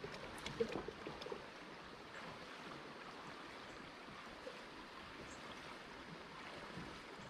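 Faint, steady rush of river water running over a shoal, with a few knocks and splashes in the first second or so.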